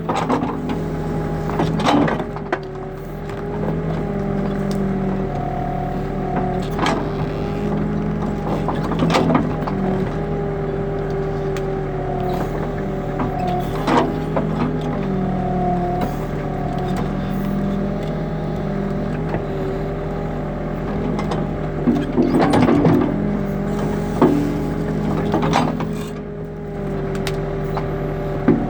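New Holland backhoe loader's diesel engine running steadily, its pitch rising and dipping a little as it works. Short metal knocks and clanks come now and then, several in a cluster about three-quarters of the way in.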